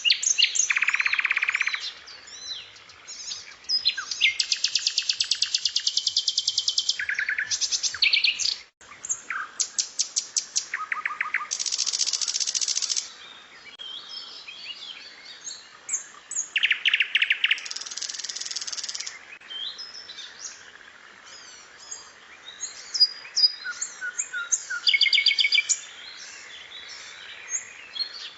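Recorded song of several small songbirds mixed into a birdsong training track: fast rattling trills lasting a second or two each, alternating with sharp chirps and short whistles, with no real pause.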